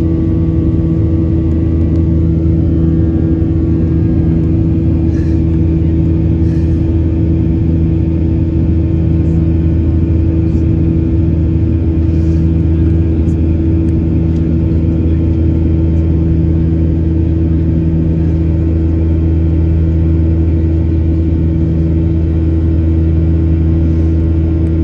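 Steady cabin drone of a Boeing 737-800 in flight: the jet engines and airflow make an unchanging roar with a low, constant hum.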